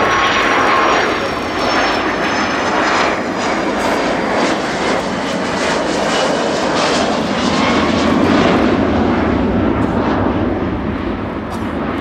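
Boeing 757 jet engines passing overhead: a loud, steady rushing noise with thin high whines that slowly fall in pitch.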